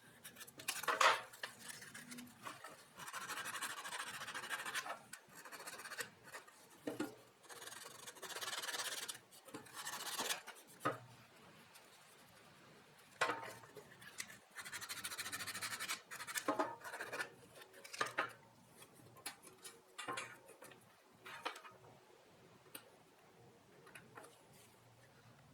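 Hand work on small metal parts: irregular stretches of rubbing and scraping, each a second or two long, broken by sharp clicks and clinks.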